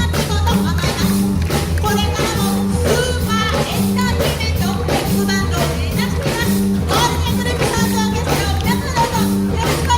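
A live band playing a steady-beat number, with a walking bass line, drum hits and horn melody.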